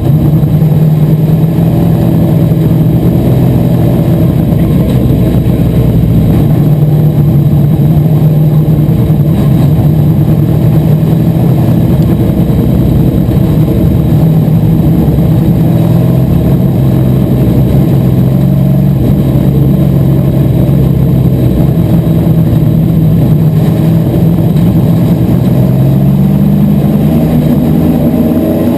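Asphalt modified race car's V8 engine running at a fairly steady pitch, then revving up with a rising note near the end.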